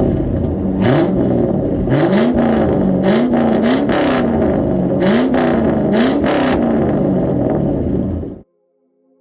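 V8 pickup engine revved again and again through a custom equal-length dual exhaust with an X-pipe, the pitch climbing and dropping with each blip. It cuts off suddenly near the end.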